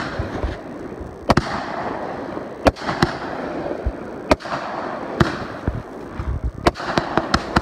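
Fireworks going off close by: sharp bangs every second or so, coming quicker near the end, over a steady crackling hiss.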